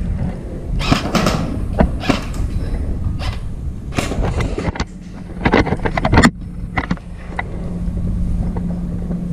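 Scattered sharp snaps and clicks of airsoft gunfire over a continuous low rumble, with a quick cluster of snaps a little past the middle. A steady low hum comes in near the end.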